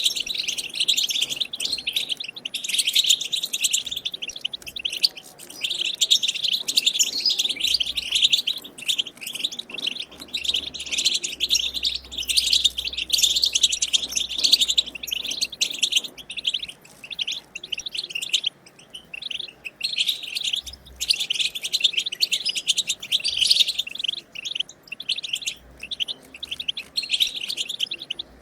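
European goldfinch singing a long, fast, twittering "batbata" song of rapid high chirps and trills, with only brief pauses. This is the wild-type song played to stimulate caged goldfinches to sing.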